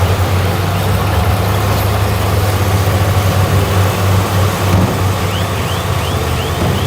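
Heavy diesel earthmoving machinery running steadily under work. Over the last couple of seconds there are short high squeaks repeating about three times a second.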